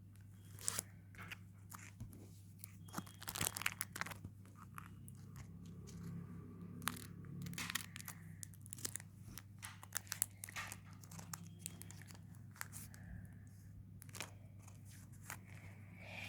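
Foil Pokémon booster pack being torn open and handled, with irregular crackling, tearing and crinkling over a steady low hum.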